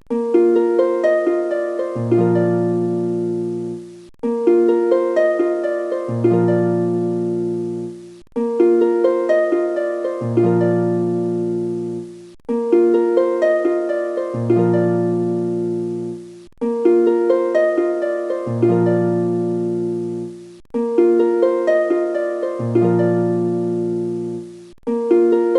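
Background music: a short phrase of plucked notes that loops about every four seconds, each pass fading away before the next begins.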